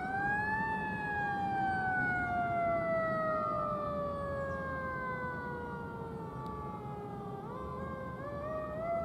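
Emergency vehicle siren wailing: the pitch tops out about a second in, falls slowly for about seven seconds, then climbs again near the end. Traffic and engine noise run underneath.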